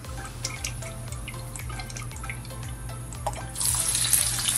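Hot oil in a wok ticking and popping lightly, then about three and a half seconds in a sudden loud sizzle as food goes into the oil and starts to fry.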